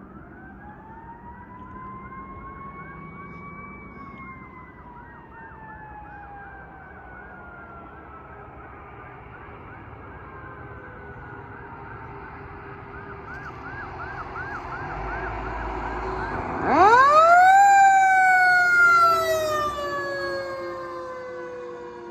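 Emergency sirens on responding fire apparatus: a mechanical siren winds up and slowly coasts down while an electronic siren yelps rapidly, getting louder as the apparatus approaches. Near the end, another mechanical siren spins up sharply and loudly, then slowly winds down.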